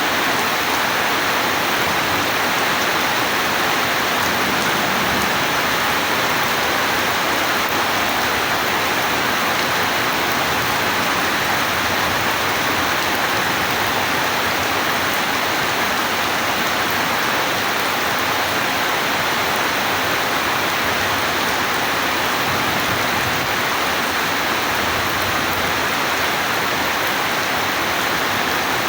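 Steady heavy rainfall, an even, unbroken hiss of rain with no thunder.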